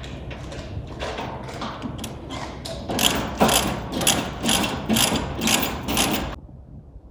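Ratchet tie-down being cranked to tension the load restraint, a run of sharp ratcheting clicks at about three strokes a second that grows louder about three seconds in and cuts off suddenly near the end.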